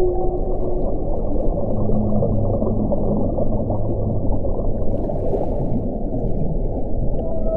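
Strong wind blowing steadily as a deep rushing noise, with low drawn-out moaning tones that come and go in it.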